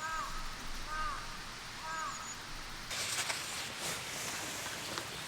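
A bird calling three times, about a second apart, each call a short arched note. About three seconds in, a burst of rustling with a few sharp clicks.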